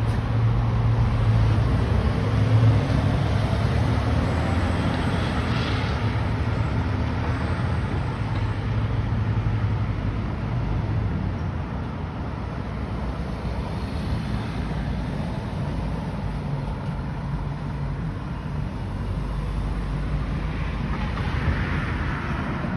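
Emergency vehicle's engine rumbling as it drives by, loudest in the first few seconds and easing off after about ten seconds, over steady traffic noise.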